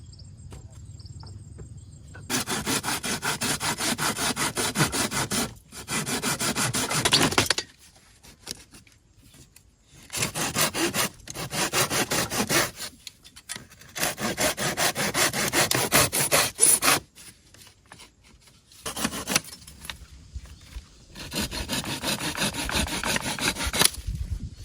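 Hand saw cutting through wood in quick back-and-forth strokes, in six bouts with short pauses between them.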